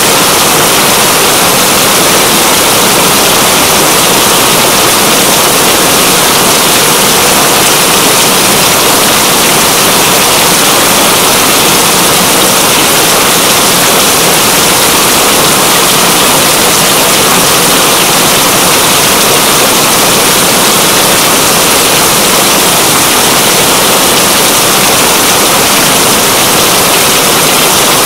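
Steady, loud rainfall: a dense, even hiss of raindrops that does not change.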